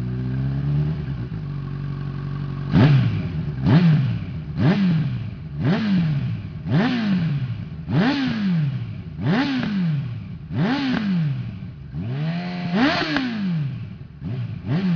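Honda CB1000R inline-four through an aftermarket Hurricane sport exhaust, idling and then blipped about ten times, roughly once a second, each rev rising quickly and falling back, with one held a little longer near the end.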